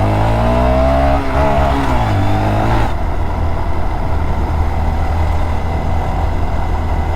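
Mini motorcycle engine revving up and easing off over the first three seconds, then a steady rush of riding noise with the engine humming low underneath.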